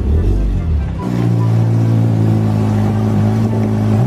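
A car engine running at a steady pitch, starting abruptly about a second in after a low rumble.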